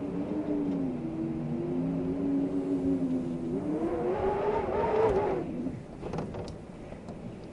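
Wind howling: a wavering pitched moan that climbs in pitch about three and a half seconds in, then breaks off two seconds later, leaving a few faint clicks.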